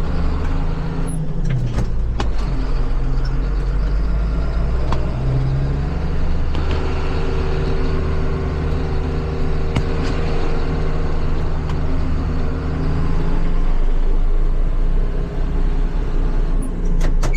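Farm tractor engine running as the tractor pulls away and works up through the gears, its steady drone shifting pitch in steps several times.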